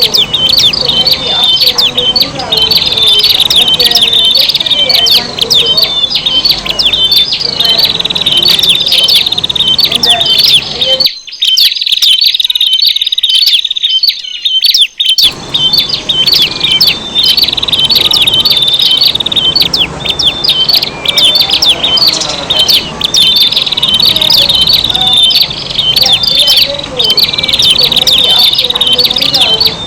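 Prinias (prenjak) calling noisily, a dense run of rapid, high chirps and short song bursts repeated over and over, as in a bird-lure recording.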